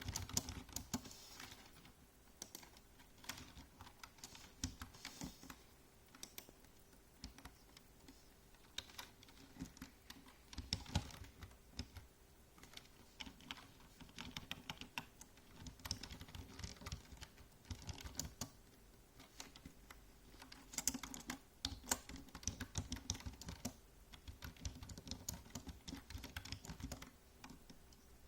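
Typing on a computer keyboard: runs of rapid key clicks broken by short pauses, over a faint steady hum.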